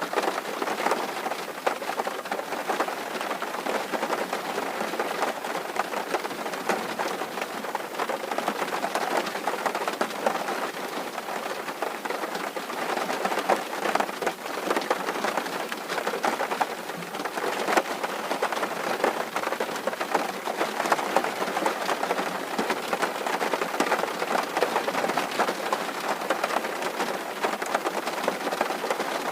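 Steady rain falling on a tin roof: a dense, even patter of many small drop hits on the metal sheeting.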